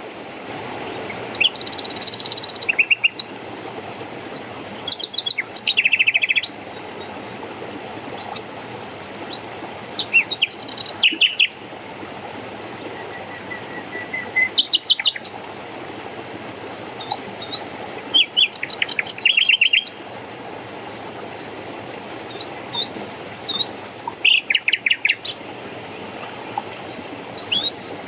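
Small songbirds chirping in short bursts of rapid high notes every few seconds, over a steady rush of running water.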